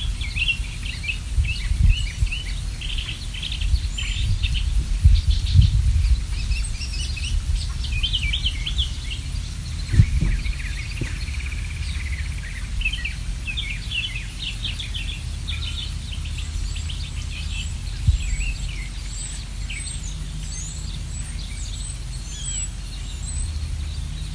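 Several songbirds chirping in quick, short notes, over and over, with higher chirps toward the end. Underneath runs a steady low rumble with a few dull thumps, the loudest about ten seconds in.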